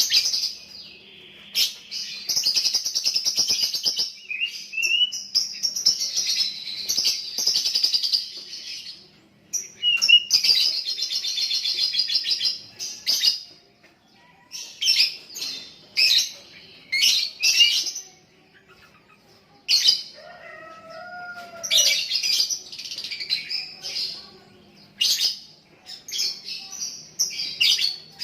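Young lovebird chattering in rapid, high-pitched runs. It keeps going for several seconds at a stretch in the first half, in the long continuous song that Indonesian keepers call ngekek, then breaks into shorter bursts.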